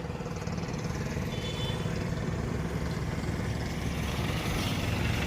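Bus engine running with a steady low rumble, heard from inside the bus as it sets off, growing slightly louder.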